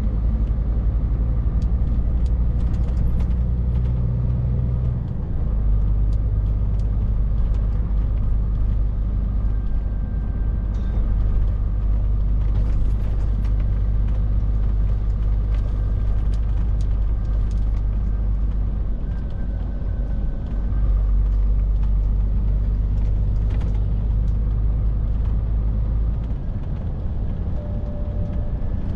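Scania R450 lorry's 13-litre straight-six diesel pulling along the road, a steady low engine drone with road noise. The engine note shifts pitch a few times as the engine speed changes.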